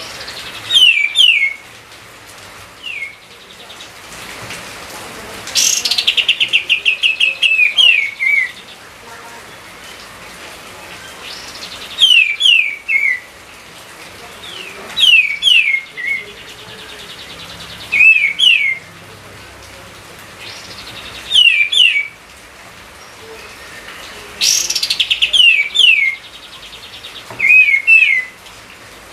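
A songbird singing short phrases of two or three quick, falling whistled notes, repeated every few seconds, with a fast rattling trill twice, about six seconds in and again near the end.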